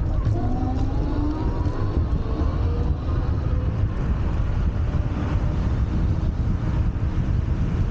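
Wind buffeting the microphone while riding a Wolf Warrior 11+ dual-motor electric scooter. Over the first few seconds the hub motors' whine rises in pitch as the scooter speeds up.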